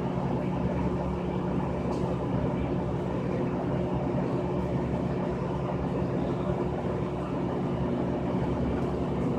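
Frigidaire Gallery Series top-loading washing machine running, with a steady motor hum and rumble.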